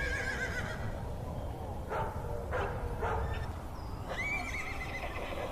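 Horses whinnying: a quavering whinny at the start and another about four seconds in, with three sharp knocks in between, over steady low background noise.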